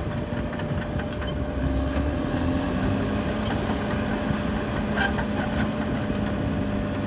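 Caterpillar D6R XL crawler bulldozer working: its diesel engine runs steadily under the clatter of its steel tracks, with faint, intermittent high-pitched squeaks.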